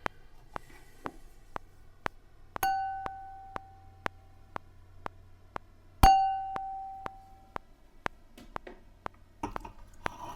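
A wine glass struck twice, each strike ringing out with one clear high tone that fades over about two seconds. Steady clicks tick about twice a second throughout, and there is brief scraping or handling noise near the end.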